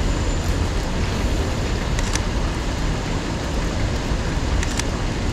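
Steady rain on a city street with a low rumble of traffic, and a few short sharp clicks about two seconds in and again near the end.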